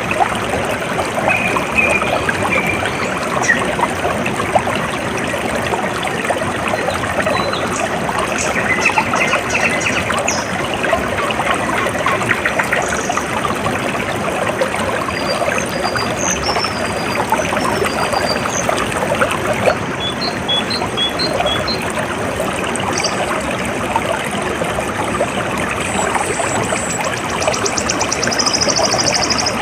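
Water trickling and flowing steadily, with small birds chirping on and off over it: scattered short calls, a run of four quick notes about twenty seconds in, and a high buzzy trill near the end.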